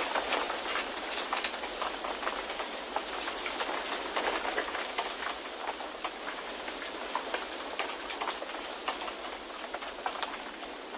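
Wind recording for white noise: a steady rushing hiss that swells and eases a little, with many small crackles and ticks scattered through it.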